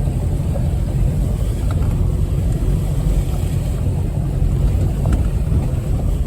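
Off-road vehicle driving along a flooded trail: a steady, loud, low rumble of engine and drivetrain.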